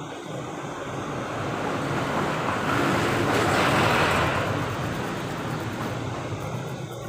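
A vehicle passing by: a noise that swells to a peak about halfway through and then fades, over a steady low hum.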